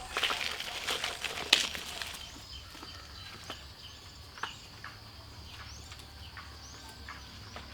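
A small bird chirping, short high calls repeated about once a second, over a steady high hum like insects, with a few light clicks.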